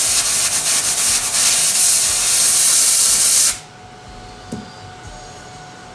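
Compressed air blowing on a freshly welded sheet-metal panel to cool it: a loud, steady hiss that cuts off suddenly about three and a half seconds in.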